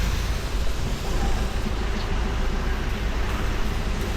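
Motorcycle engine running steadily while riding, under constant wind and road noise.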